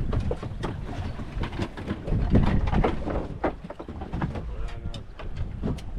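Wind rumbling on the microphone aboard a small fishing boat, with scattered knocks and clatter of gear on the deck and a brief squeak about five seconds in.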